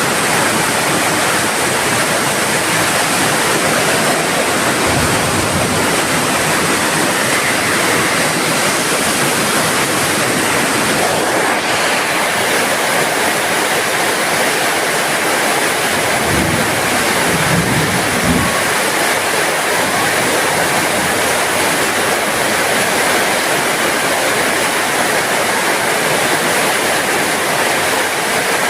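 Heavy rain falling steadily, an even hiss of drops. A few faint low rumbles come and go about two-thirds of the way through.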